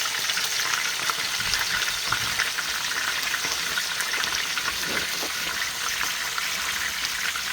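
Food frying in a pot of hot oil: a steady sizzle with many small crackles and pops throughout.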